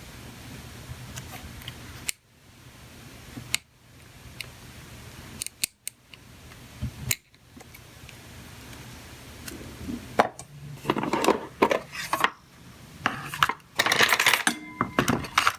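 Small metal hand tools clicking and clinking while being handled on a bench: a few separate clicks, then a busy run of scraping and clinks over the last five seconds or so.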